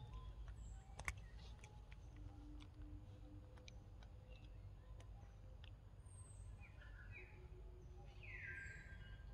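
Quiet forest background with a few short bird calls in its second half, the loudest a falling chirp near the end, and scattered faint clicks earlier on.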